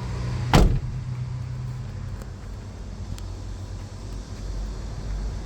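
Sany truck crane's cab door slammed shut about half a second in, one loud bang, over a steady low rumble.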